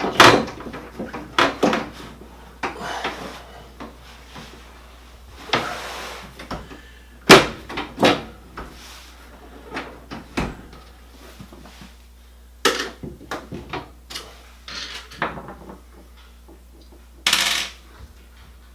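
Dryer pedestal drawer being worked into its slot: irregular knocks and clunks with a few short sliding scrapes as the drawer rails are pushed into place.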